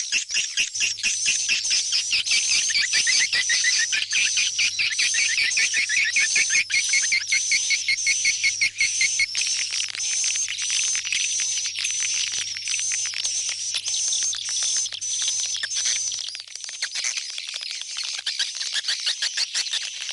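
Swiftlets twittering in a dense, rapid run of high chirps. This is a swiftlet-house lure call meant to draw the birds back to roost, with a faint low hum under it that stops about 16 seconds in.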